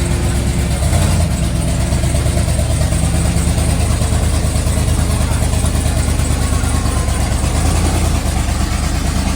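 Car engine running hard and loud at steady high revs during a burnout.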